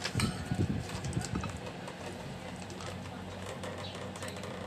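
Close-miked eating: soft low thumps of chewing in the first second and a half, then quieter mouth sounds and a few faint clicks of a fork, over a steady low electrical hum.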